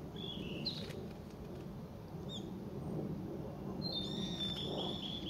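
Bird calls: a few short, high, falling chirps, then a quick run of repeated high notes near the end, over a steady low rushing background.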